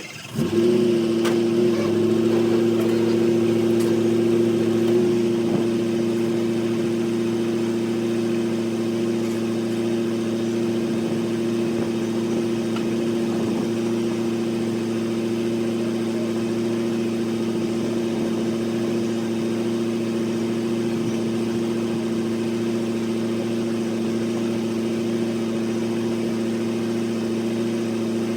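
An engine idling steadily at an even pitch. It comes in suddenly at the start and is a little louder for the first few seconds.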